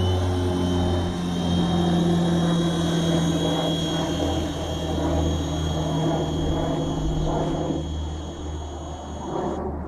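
Small remote-control toy helicopter in flight: its electric motor and rotors give a steady whirring hum with a thin high whine, easing off a little near the end.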